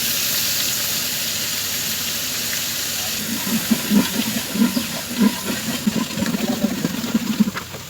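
Onion paste sizzling in hot oil in a pan, a steady loud hiss of frying. From about three seconds in there are irregular dull knocks, and the hiss falls away near the end.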